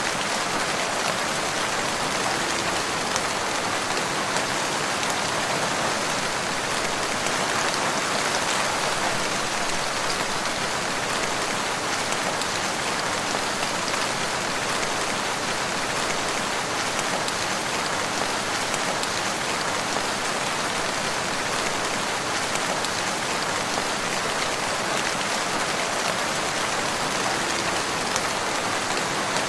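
Steady rain falling, a continuous hiss with fine scattered drop ticks.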